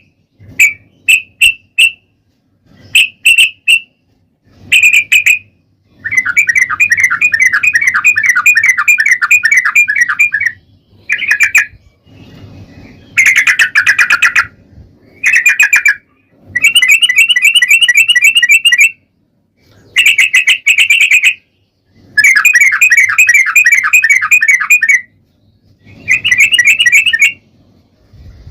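Yellow-vented bulbul (trucukan) singing: short chirped phrases at first, then from about six seconds in a run of long, rapid rolling trills, each lasting two to four seconds with short pauses between.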